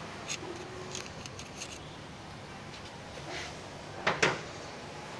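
Light clicks and scraping of a small hand tool working at the mesh net over the mass airflow sensor, enlarging a hole in it, with two sharp clicks about four seconds in.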